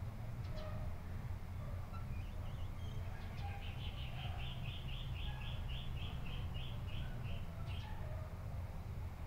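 A bird chirping in a quick run of about a dozen short high chirps, three or so a second, starting a few seconds in, with a few single chirps around it, over a steady low rumble.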